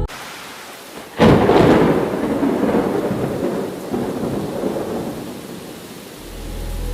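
A thunderclap breaks about a second in over a steady hiss of rain, then rumbles and fades away over several seconds. Near the end, a low steady drone comes in.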